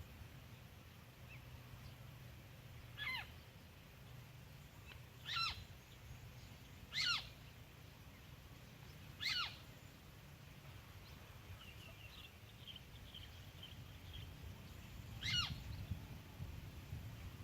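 A bird calling outdoors, five short notes that each slide quickly downward, spaced a few seconds apart. A faint trill runs briefly between the fourth and fifth notes.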